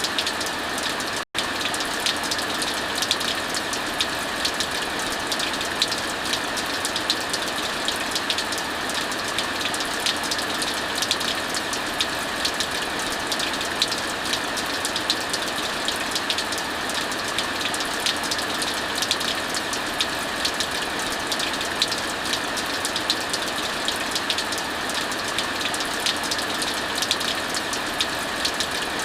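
Steady heavy rainfall mixed with crackling fire: a dense even hiss dotted with many small sharp pops. The sound cuts out for an instant about a second in.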